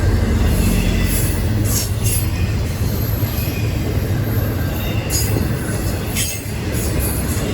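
Freight train rolling past, with a steady low rumble of wheels on rail and short high-pitched wheel squeals coming and going.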